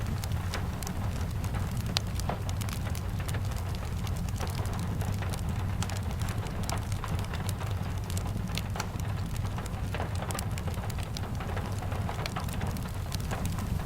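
Steady rain falling, with a deep low rumble underneath and many small sharp clicks scattered throughout.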